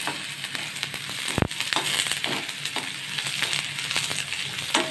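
Chopped onions, curry leaves and green chillies sizzling in hot oil in a metal kadai, stirred with a steel spatula that scrapes and knocks against the pan. One louder knock comes about a second and a half in.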